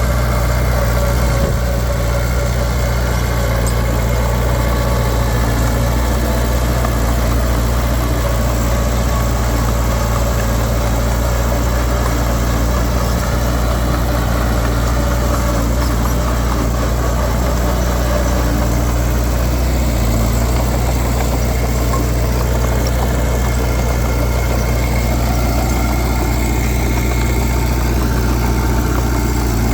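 Heavy diesel engine of earthmoving machinery running steadily at an even speed, without revving.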